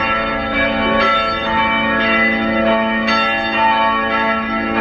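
Church bells pealing: several bells of different pitches struck one after another, a new stroke every half second to a second, their tones ringing on and overlapping.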